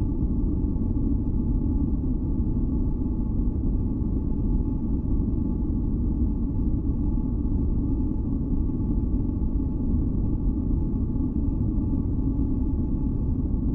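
A steady, deep, rumbling masking noise with a few faint held tones above it. It stays even throughout, with no change.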